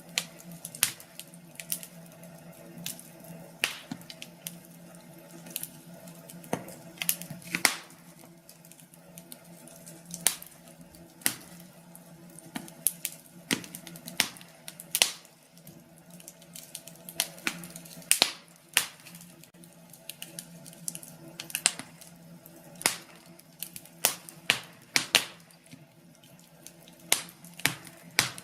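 Wood fire in a fireplace crackling, with irregular sharp pops about once or twice a second, sometimes in quick clusters, over a low steady hum.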